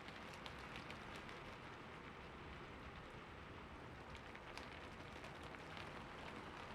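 Slow, light rain: a soft, even hiss with many single drops heard hitting distinctly.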